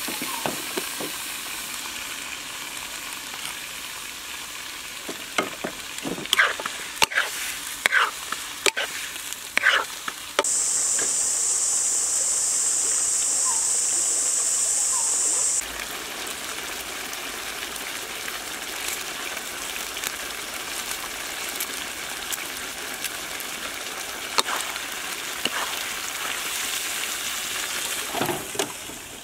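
Chicken livers sizzling in a wok over a wood fire, a steady frying hiss. A run of sharp scrapes and knocks of stirring in the pan comes between about six and ten seconds in. A louder, even sizzle runs from about ten to fifteen seconds and cuts off suddenly.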